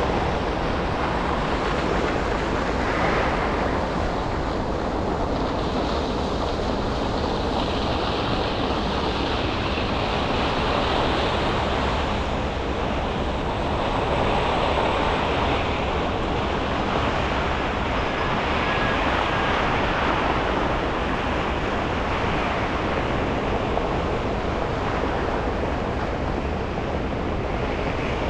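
Steady street traffic noise from a car driving through city streets after snow: tyre hiss and passing vehicles rise and fade in slow swells, with no sharp sounds.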